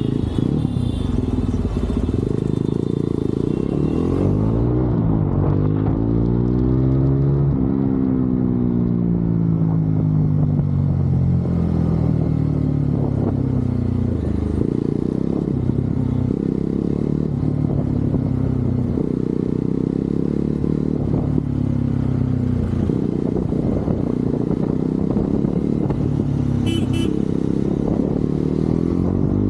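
Motorcycle engine running under way, its pitch climbing as the rider accelerates and dropping back as he eases off, a few times over.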